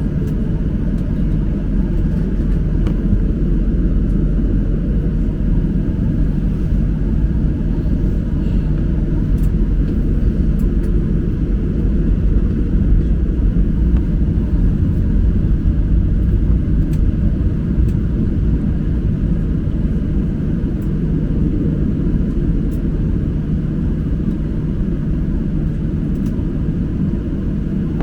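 Steady low rumble of a Boeing 737-800 airliner, its jet engines and airflow heard as continuous noise.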